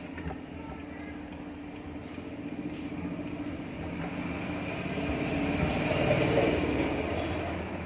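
An electric exhaust fan with freshly replaced bearings runs and spins up. Its hum and air rush build over the first several seconds and settle near the end.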